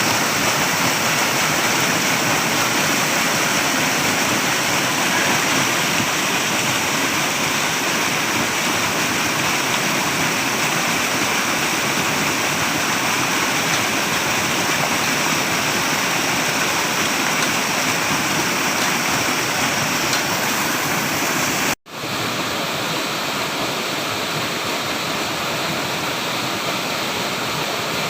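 Flowing water, a steady full rush with no other sounds. About 22 seconds in it cuts out for an instant and resumes slightly quieter.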